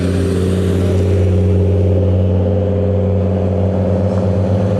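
A car engine running at a steady low speed as the car rolls in, giving an even, deep drone.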